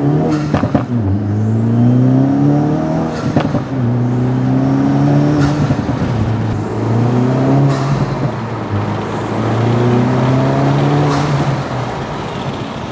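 Acura Integra Type S's turbocharged four-cylinder through a Milltek Road+ valved cat-back exhaust, accelerating hard through the gears: the note climbs in pitch, then drops at each upshift, about four times, with brief cracks around some shifts. The sound fades away near the end.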